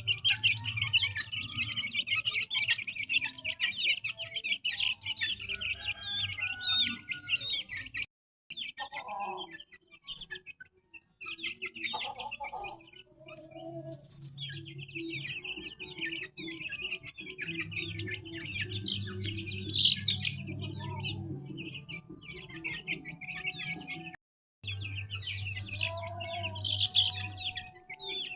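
A flock of young chicks, about 20 days old, peeping continuously over a low steady hum. The sound breaks off abruptly twice, about eight seconds in and again about three-quarters of the way through.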